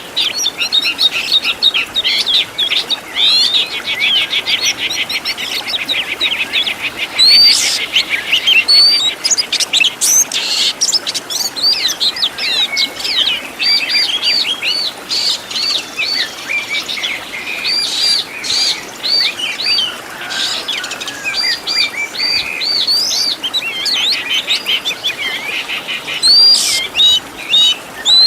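Oriental magpie-robin (kacer) singing a long, varied song packed with mimicked phrases, loud and without a break. A fast rattling trill comes a few seconds in, and later come runs of quick, repeated rising whistled notes.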